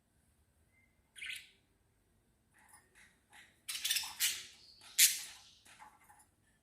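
Small birds chirping and squawking in short, sharp calls: a single chirp about a second in, then a rapid flurry of calls, loudest about five seconds in.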